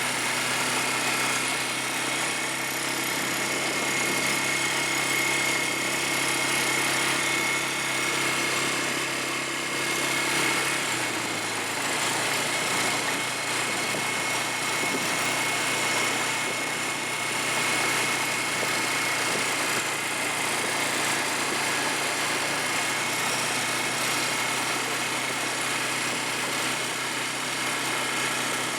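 ATV engine running steadily under way, with a constant high whine above the engine note; the engine note drops a little about a third of the way through.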